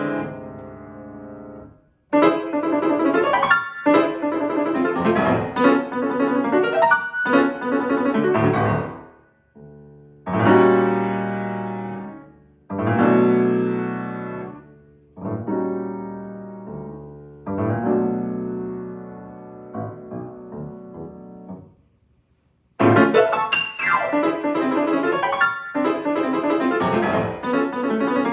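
Solo piano playing: quick, busy passages, then a slower stretch of separate chords that ring and die away. The quick playing returns after a brief pause near the end.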